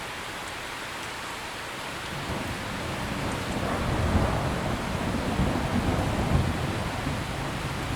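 Steady heavy rain with a low rumble of thunder that builds about two seconds in, is loudest in the middle, and eases off near the end.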